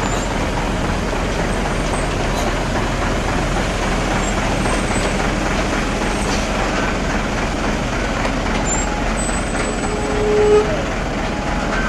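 Steady noise of a heavy truck running on the road, with a short higher-pitched tone about ten seconds in.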